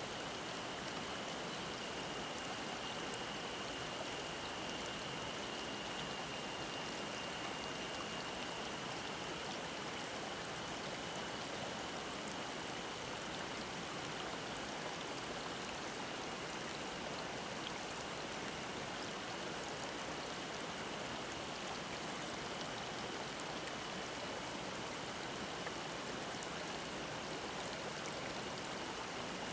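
Mountain stream babbling steadily over rocks, an even rush of water, with a faint steady high-pitched drone of cicadas above it.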